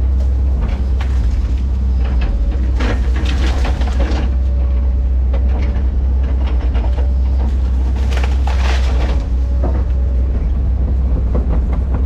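Diesel engine of a tracked earthmoving machine running steadily under load, with irregular track clanking and the crackle of brush and wood being pushed or broken.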